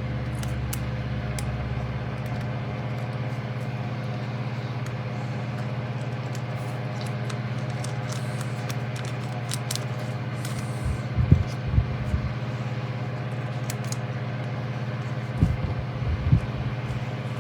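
A low, steady hum runs throughout, with a few soft knocks about eleven seconds in and again near the end, as small screws and model parts are handled.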